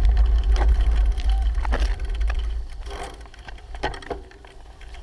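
Wind buffeting the microphone of a camera riding along on a moving bicycle, easing off about halfway through, with scattered clicks and knocks.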